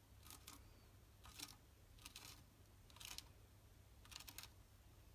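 Faint scratchy strokes of a craft tool working over paper, five brief ones about a second apart.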